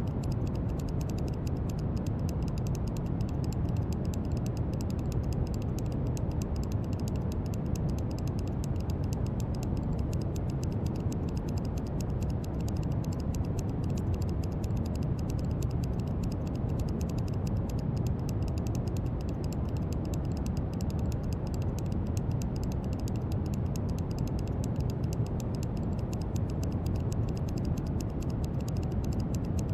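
Steady brown noise: a deep, even rumbling hiss weighted toward the low end, with a faint fine crackle of tiny clicks in the highs.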